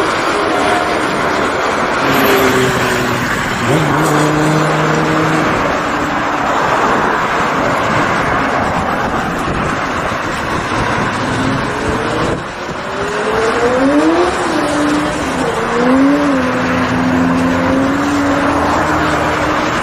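Sportbike engine running on the road under a steady rush of road and wind noise, its pitch climbing a little past halfway through, then rising and falling with the throttle for a few seconds.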